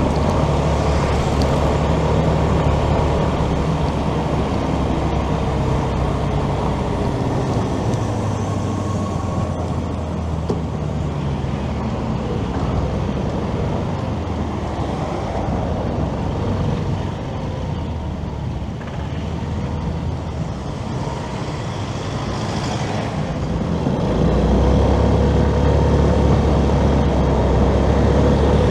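A motorcycle riding through city traffic: its engine running under a heavy rumble of wind on the camera's microphone, with road traffic around it. The engine and wind get louder near the end.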